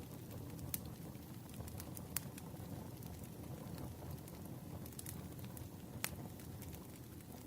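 Campfire burning: a steady low rush of flame with scattered sharp crackles and pops from the burning wood at irregular moments.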